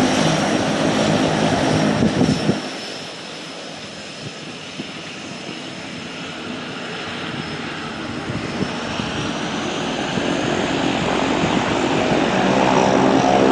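Medical helicopter's turbine engine and rotor running, with a steady high turbine whine over the rotor's thrum. The sound drops off abruptly about two and a half seconds in, then grows steadily louder again toward the end.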